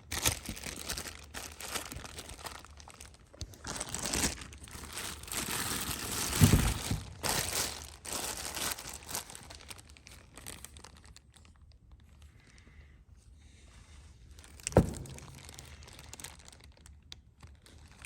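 Packaging crinkling and rustling as a new vacuum pump and its instruction paper are handled on a table, with a low thud about six and a half seconds in and a sharp knock at about fifteen seconds.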